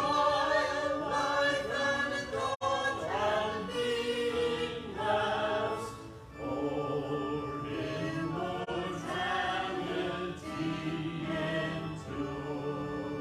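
Church choir singing in several voices, in phrases with a short breath pause about six seconds in.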